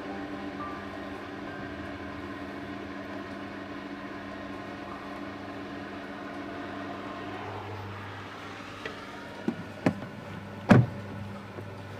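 A steady low background rumble, with three sharp knocks near the end, the last one the loudest.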